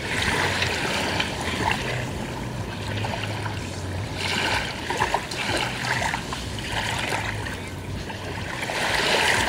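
Small waves lapping and splashing at the shore of a calm beach, swelling in washes every second or two, over a low steady hum.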